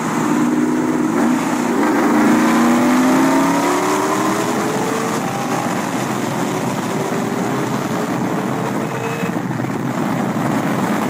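Car engine pulling hard at speed, its pitch climbing slowly over several seconds, then climbing again in a higher gear, over steady wind and road rush.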